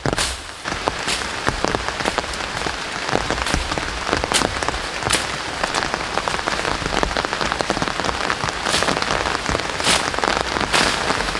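Heavy rain falling steadily on dense tropical forest: a thick patter of drops, with sharper single hits every second or so.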